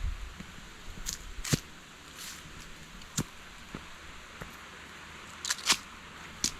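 Footsteps on rough outdoor ground, irregular, a sharp step roughly every second, with a quick pair of louder steps near the end.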